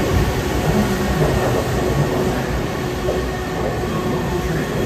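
Tokyu 5050 series electric train pulling in along a station platform: a steady rumble of wheels on rail and running gear as the cars pass at slowing speed.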